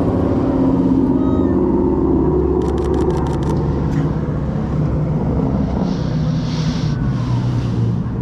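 A vehicle engine running steadily with a deep, loud rumble. A quick run of sharp clicks about two and a half seconds in, and a brief hiss near the end.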